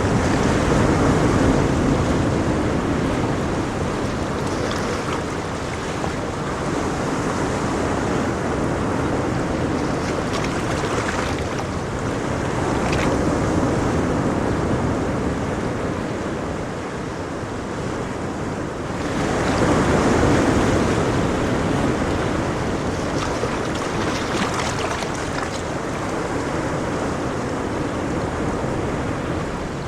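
Ocean waves breaking and washing on shore, swelling and easing every few seconds, with one larger surge a little past the middle.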